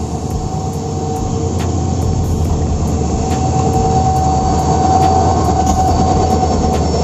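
Indian Railways passenger train, hauled by a WAP-4 electric locomotive, pulling into the station: a steady rumble that slowly grows louder, with a faint steady squeal above it.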